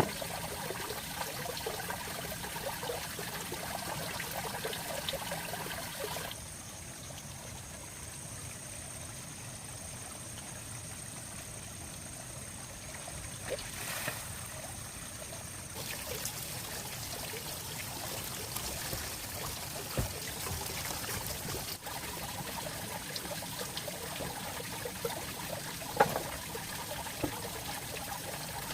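Water trickling and flowing steadily, with a few sharp clicks. The running-water sound changes abruptly about six seconds in and again about ten seconds later.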